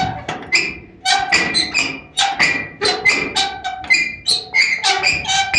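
A door and its latch banged and rattled again and again, about three knocks a second, each with a short ringing clatter, as the door is forced to make the lock catch. The door won't lock.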